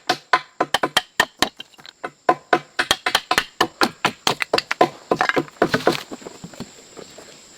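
Rapid, evenly repeated chopping strikes into wood, about four or five a second, stopping about six seconds in.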